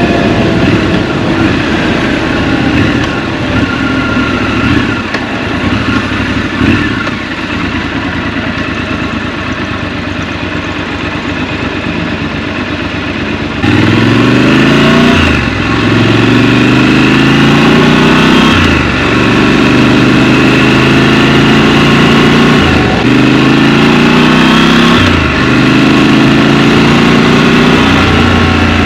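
Scrambler motorcycle engine heard from the rider's seat. It runs softly for the first half. About halfway through it gets suddenly louder and accelerates, its pitch climbing and dropping back several times as it shifts up through the gears.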